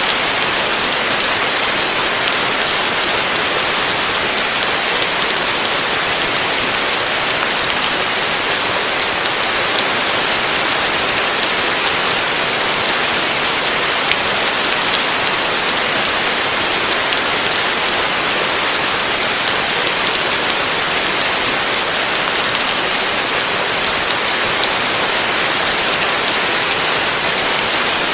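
Heavy rain falling steadily on a roof: an even, unbroken hiss of many drops that keeps the same strength throughout.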